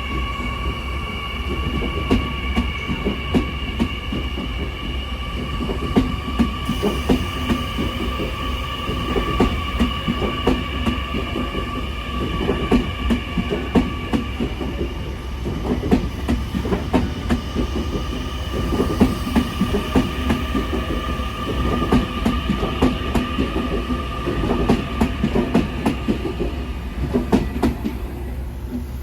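Electric passenger train running on the track: a constant rapid clatter of wheels over rail joints, with a steady high whine that fades away near the end.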